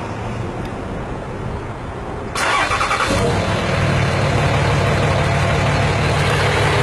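Car engine cranking and catching about two and a half seconds in, then settling into a steady idle.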